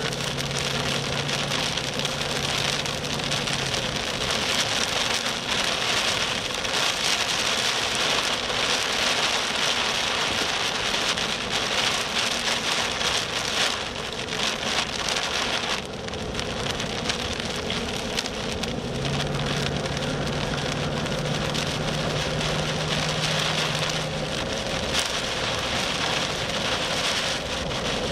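Rain drumming steadily on a moving vehicle's roof and windshield, heard from inside the cabin, with road noise beneath it. A low steady hum comes in twice and drops out again.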